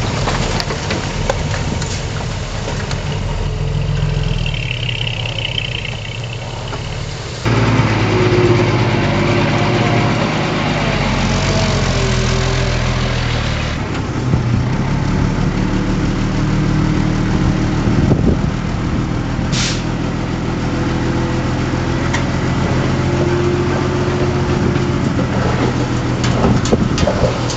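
Heavy diesel construction machinery running steadily. The engine sound cuts abruptly to a louder, lower-pitched engine about seven seconds in.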